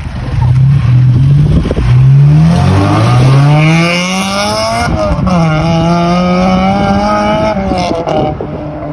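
Honda Civic Type R (EP3) four-cylinder engine accelerating hard as the car pulls away. Its pitch climbs through the revs, drops suddenly at a gear change about five seconds in, then climbs again before fading into the distance near the end.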